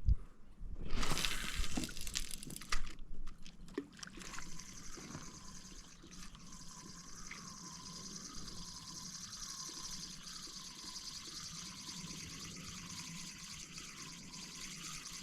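Water splashing and pouring for a couple of seconds, then running on as a steady trickle.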